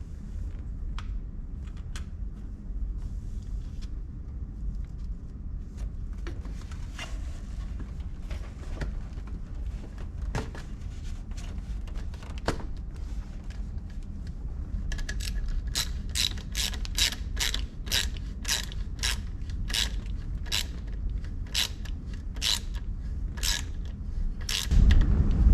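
Hand ratchet wrench clicking, with scattered tool clicks and knocks at first, then about ten seconds of steady ratcheting strokes at two to three a second, over a steady low rumble; a loud thump at the very end.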